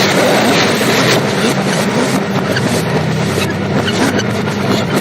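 A film soundtrack played in reverse: a loud, dense mix of fight-scene sound effects over a steady low droning score.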